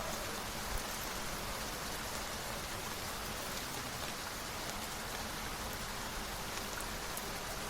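Steady rain falling, an even continuous hiss with a faint click under a second in.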